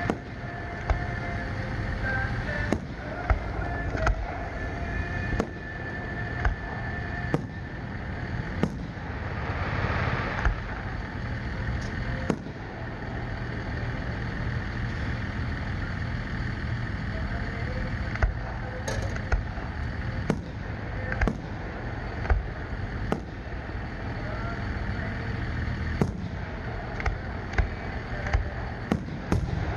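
Fireworks display: aerial shells launching and bursting with sharp bangs every second or two, coming in quicker succession near the end, over a steady low background rumble.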